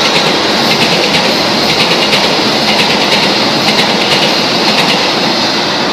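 Passenger train running past at speed: a loud, steady rolling rumble with the wheels clicking over rail joints.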